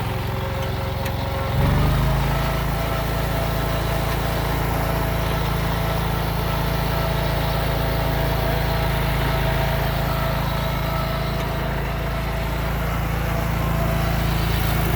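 1975 Cub Cadet 1000 garden tractor's 10-horsepower single-cylinder Kohler engine running. About one and a half seconds in the engine speeds up with a brief rise in level, then it runs steadily as the tractor is driven in second gear.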